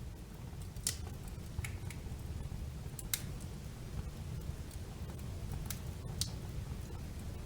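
Wood fire burning in a fireplace: a low, steady rumble of flames with a handful of sharp crackles and pops at irregular moments.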